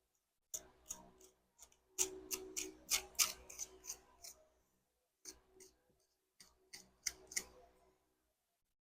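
Dried chicken feathers being worked by hand, barbs stripped off the shafts with a fingernail: crisp, papery crackles and clicks in four short flurries, the busiest about two to four seconds in.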